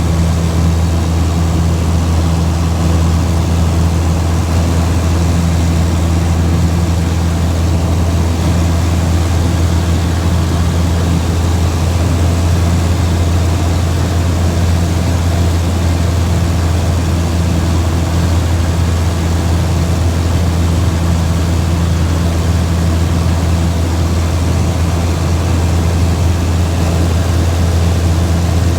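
Steady low engine drone of a vehicle, holding an even pitch throughout with a constant background rush.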